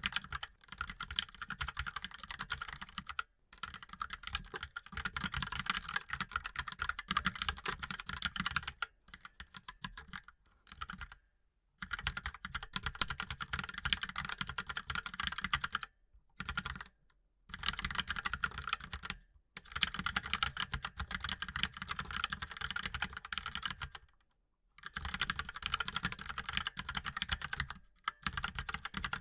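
Mechanical keyboard being typed on rapidly: dense, fast keystroke clicks in runs of a few seconds, broken by several brief pauses.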